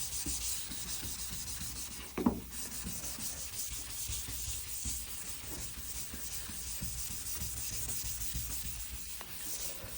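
Sandpaper scrubbing steadily over automotive paint, sanding down failed clearcoat and primer on a truck hood. A brief knock comes about two seconds in.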